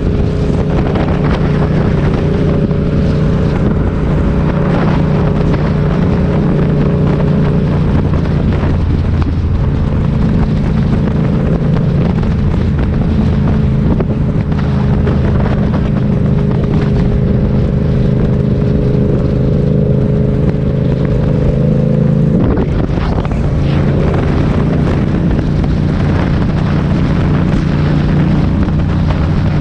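Motorcycle engine running steadily while riding, with wind noise on the microphone. The engine note changes briefly about 22 seconds in, then settles again.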